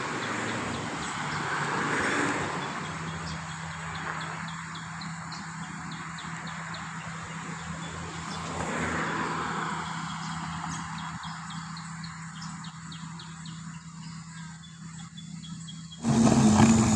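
Road vehicles passing with a steady engine hum, the noise swelling and fading, with birds chirping in short rapid calls through the middle. A louder sound comes in suddenly near the end.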